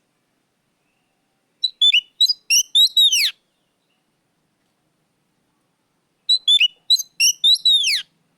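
Oriental magpie-robin singing loud, clear phrases: twice, a few seconds apart, a quick run of short whistled notes ending in a long whistle that slurs downward.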